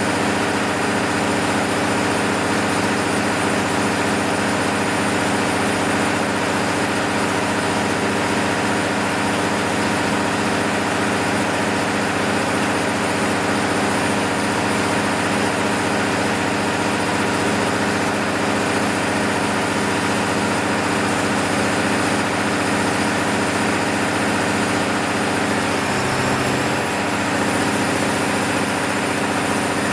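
MEP-006A military diesel generator set's six-cylinder engine running steadily during a load test after a full overhaul, with a brief change in its low tone near the end.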